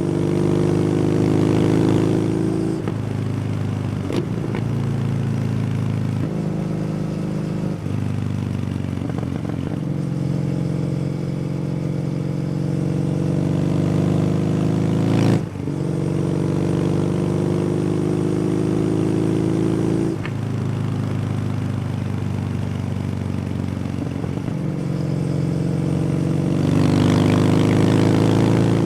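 Kawasaki W800's air-cooled parallel-twin engine running through an SC Project exhaust while riding. The engine note climbs steadily and is broken by several short dips at gear changes, each followed by the note climbing again. It gets louder on more throttle near the end.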